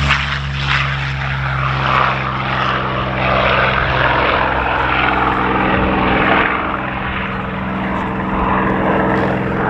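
Curtiss P-40N Warhawk's Allison V-12 engine running at power in flight, a steady propeller-driven drone that swells and eases slightly as the fighter manoeuvres.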